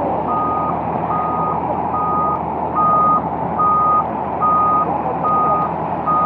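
Vehicle reversing alarm beeping at a steady pace, about one beep a second, each beep one steady tone. It sounds over a loud, steady rushing rumble.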